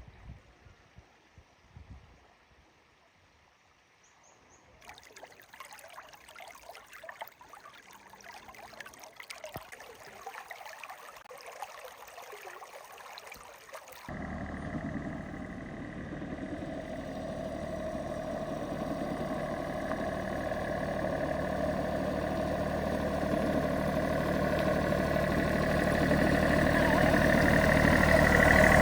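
A steady hiss for several seconds, then an abrupt switch to a vehicle engine running steadily and growing louder toward the end.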